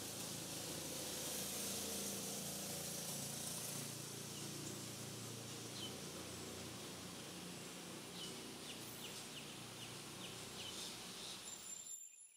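Faint high chirps from a small bird over a steady outdoor hiss: a couple of single notes at first, then a quick run of about seven short notes near the end. The sound cuts off suddenly just before the end.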